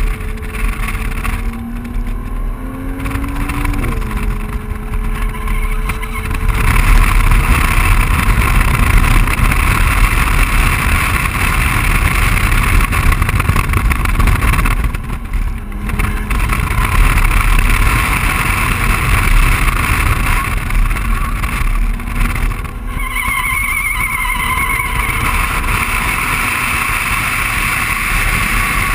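BMW 135i's turbocharged inline-six driven hard, heard from inside the cabin. The engine note climbs for the first few seconds and drops at an upshift about four seconds in, then rises and falls with the corners under loud, steady wind and road noise.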